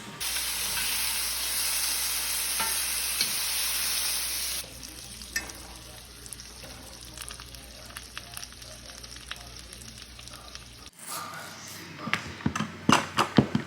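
Food sizzling as it fries in a pan: a loud, even hiss that drops to a quieter sizzle with small pops about four and a half seconds in. Near the end it cuts to sharper knocks and clatter.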